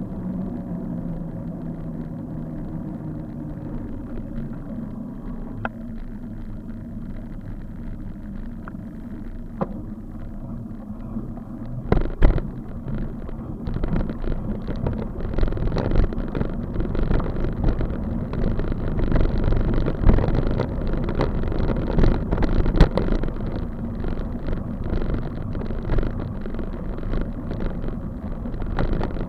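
Road noise from a moving bicycle ride with traffic: a steady low vehicle hum at first, then, from about twelve seconds in, louder rough rumbling with frequent short knocks and rattles.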